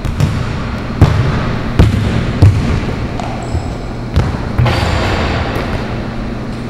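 A basketball bouncing on a hard court, several single bounces at uneven gaps of roughly a second.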